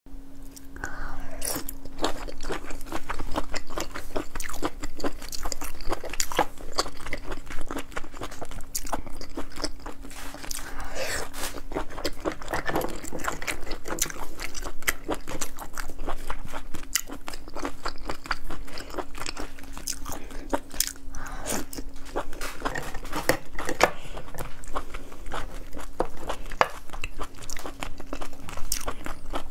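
Close-miked chewing, biting and wet mouth sounds of someone eating clam meat, with many sharp irregular clicks. Hard clam shells are handled and pried apart. A faint steady hum runs underneath.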